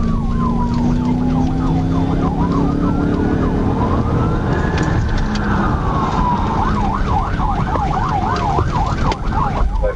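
Police car siren going through slow rising-and-falling wails overlapped by quicker sweeps, switching to a fast yelp about seven seconds in, over engine and road noise.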